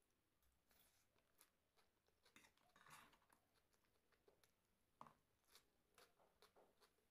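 Faint, irregular crunching and chewing of crunchy snack food, in short scattered crunches.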